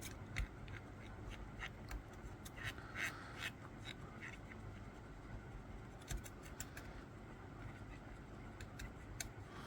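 Faint, scattered clicks and taps of a metal amalgam condenser pressing amalgam into a cavity against the tooth and matrix band.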